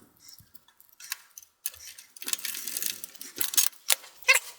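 Small metal clicks and clinks of a screw being driven in with a screwdriver to hold the graphics card's bracket in a desktop PC case, in irregular bursts.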